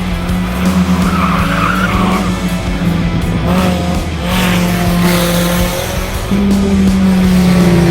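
Stock cars racing on a track, engines running with tyre skidding, mixed with background music. The sound gets louder about six seconds in.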